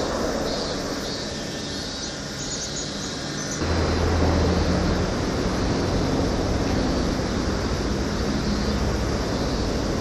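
Steady low rumble of motor traffic with a faint hiss. About a third of the way in it gets abruptly louder and a steady engine hum comes in.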